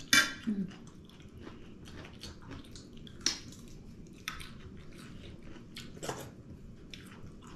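Close chewing and biting: wet mouth sounds and a few soft crunches as people eat by hand, with cooked garlic cloves among what is chewed.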